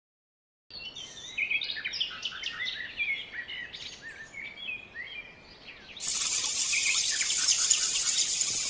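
Small birds chirping with quick, varied notes. About six seconds in, a loud, dense, finely pulsing insect chorus cuts in abruptly with a few bird notes underneath.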